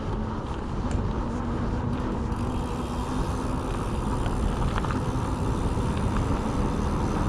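Steady rushing wind on the camera's microphone with the rumble of mountain bike tyres rolling along a tarmac lane while riding.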